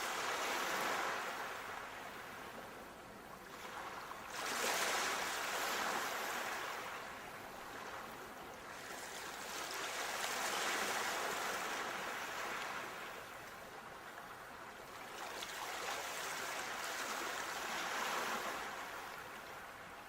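Sea waves breaking and washing in, the surf swelling and fading in about four slow surges.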